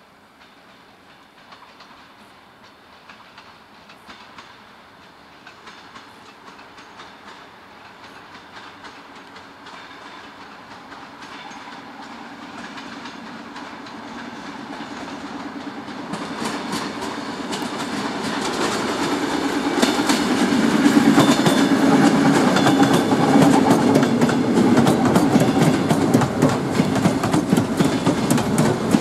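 A train approaching and passing close by, growing steadily louder for about twenty seconds, then clattering loudly as its wheels run over the rail joints, with a steady hum beneath.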